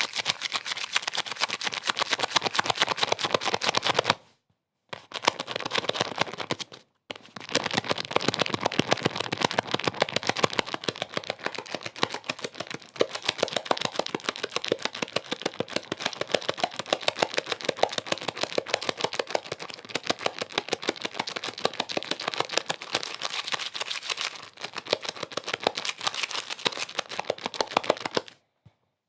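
Dense, rapid crackling noise, a fast stream of clicks over a hiss, cutting out briefly twice in the first seven seconds and once near the end.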